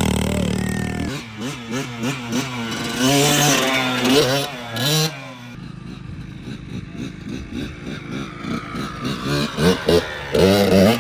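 Dirt bike engine revving up and down, loud in the first second, then rising and falling in pitch over and over as the throttle is worked.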